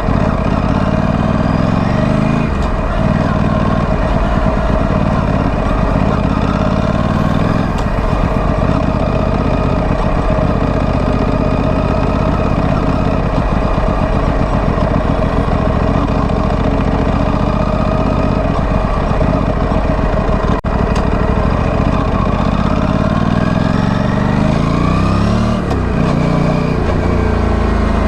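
Aprilia Tuono 457 motorcycle's parallel-twin engine running through its stock exhaust while being ridden, mostly at steady low revs. Near the end the revs rise and then fall.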